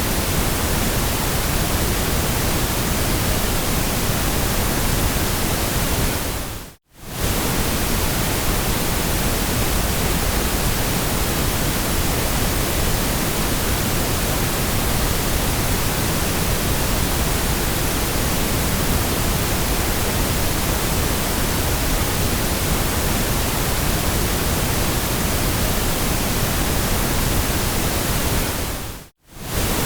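Steady, even hiss of generated pink noise, without change in pitch or rhythm. It fades out to silence and straight back twice: about seven seconds in and near the end.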